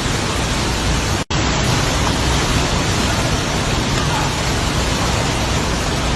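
Heavy tropical-storm rain and wind, a loud steady rush, with a brief dropout just over a second in.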